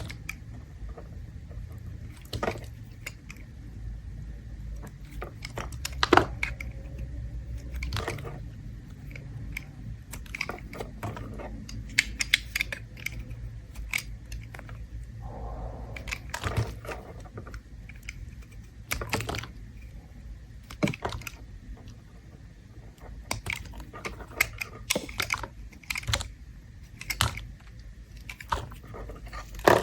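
A blade scraping and shaving a bar of soap, giving irregular crisp clicks and crackles as the shavings come away.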